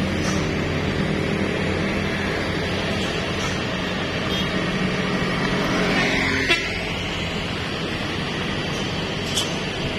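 Heavy truck engine running with a steady low drone on a steep descent, with a short sharp knock about six and a half seconds in and a fainter one near the end.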